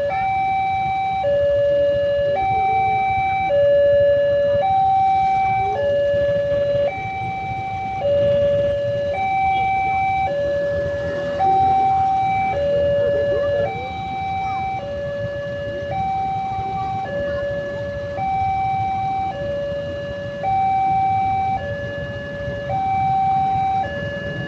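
Two-tone warning siren alternating steadily between a higher and a lower note, each held about a second and a half, over a low rumble.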